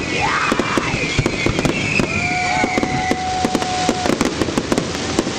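Fireworks display: dense rapid crackling and popping, with whistling fireworks gliding in pitch and a steady whistle lasting about two seconds near the middle.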